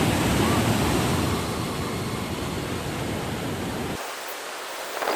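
Steady rushing of the Iguaçu Falls: an even wash of falling-water noise. Its low rumble drops away about four seconds in.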